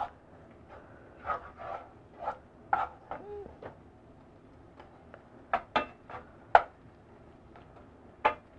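Wooden spoon stirring in a frying pan, with irregular knocks and scrapes of the spoon against the pan; the sharpest knock comes a little past the middle.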